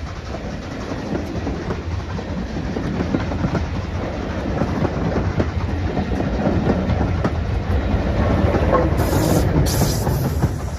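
A train passing on a heritage railway, its wheels clicking over the rail joints, growing louder as it comes near.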